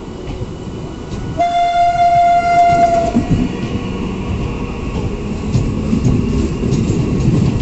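Electric local train (EMU) sounding its horn in one blast of just under two seconds, about a second and a half in. Its wheels then rumble and click over the rail joints, growing louder as the coaches run along the platform.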